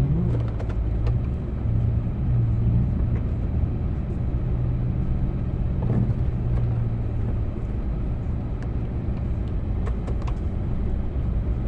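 Snow-plow vehicle's engine running steadily, a continuous low hum, with a few small knocks and clicks scattered through.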